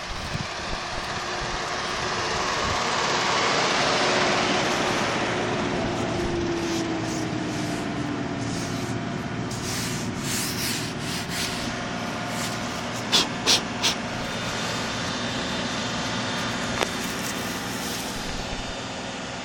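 Subaru Loyale's flat-four engine running just after a cold start in freezing weather, swelling a few seconds in and then easing, its pitch gliding down as the fast idle settles. A few sharp clicks come a little past halfway.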